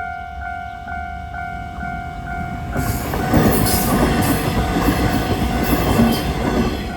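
Level-crossing warning bell dinging about twice a second; about three seconds in, a train passes close by, its rumble and wheel noise drowning out the bell.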